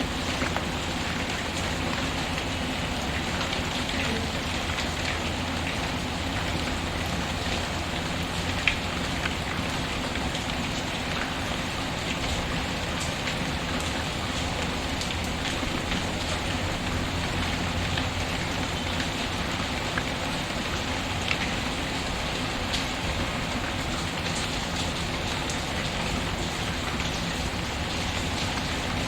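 Steady rain pattering, mixed with a wood fire crackling, with a few sharp pops standing out, the loudest about nine seconds in.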